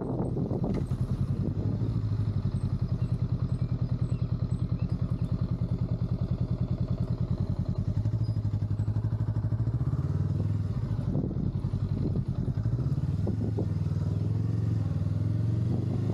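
Honda Rebel 500's parallel-twin engine running at low revs with an even, rapid exhaust pulse. The engine note changes about ten seconds in and dips briefly around twelve seconds, then comes back stronger.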